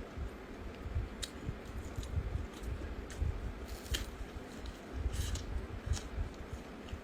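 Close-up chewing of a flatbread wrap filled with pork head meat and menzi, with irregular moist mouth clicks and smacks.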